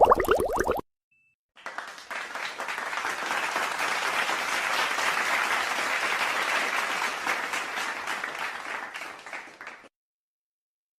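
Crowd applause, many hands clapping at once, swelling up over a couple of seconds and fading away over the last few before cutting to silence.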